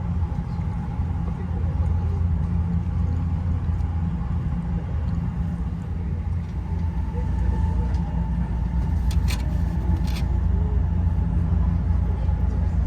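Running noise heard inside a JR Special Rapid Service train car: a steady low rumble with a faint motor whine, and two short sharp clicks about nine and ten seconds in.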